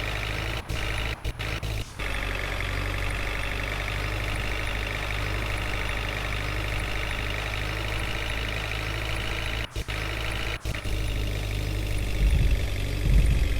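Heavy diesel machine engine running steadily, with the sound cutting out briefly a few times and a few louder low thumps near the end.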